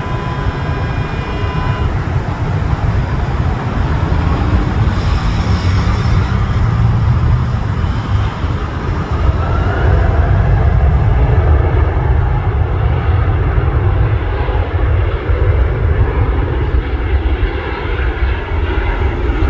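Bombardier Global 7500's twin GE Passport turbofan engines at takeoff thrust: a loud, continuous jet rumble, with a high whine over it for the first couple of seconds.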